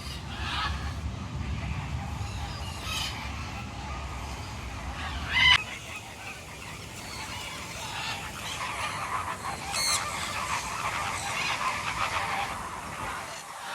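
Many birds calling in an aviary, a steady chorus with two loud calls standing out, about five and ten seconds in. A low rumble underneath stops about five and a half seconds in.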